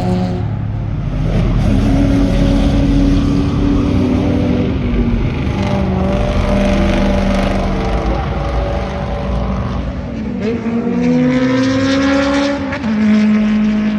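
Several cars accelerating hard away, their engines revving up and shifting through gears. Around ten seconds in, one car's engine drops in pitch as it passes, while another climbs.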